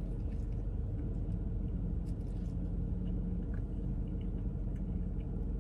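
A person chewing a mouthful of burger, with faint wet clicks and squishes, over a steady low hum inside a parked car's cabin.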